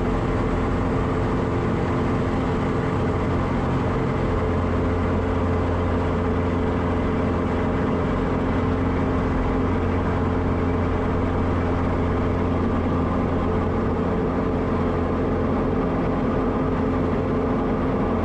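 Small airplane's piston engine and propeller running steadily at full takeoff power during the takeoff roll.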